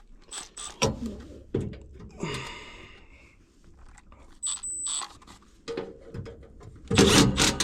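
Screws being driven and tools handled on a furnace's sheet-metal inducer motor mounting: scattered clicks and knocks, a brief high whir about two seconds in, and a louder clatter near the end.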